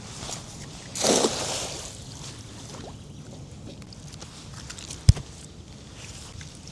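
A brief splash and slosh of water about a second in, then a single sharp knock against the boat about five seconds in.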